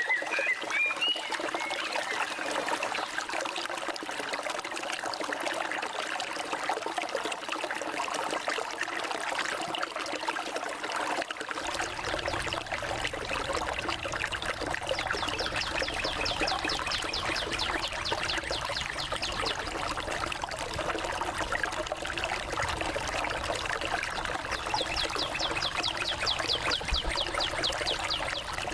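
Forest stream flowing and trickling steadily, with a few bird chirps near the start. Later, a fast, high trill sounds twice over the water, each time for several seconds.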